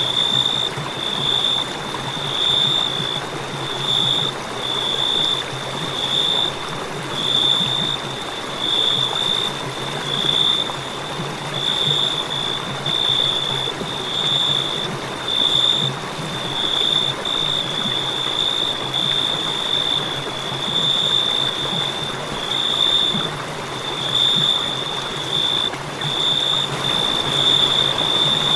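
Crickets chirping in a steady high-pitched trill that pulses about once a second, over an even background hiss.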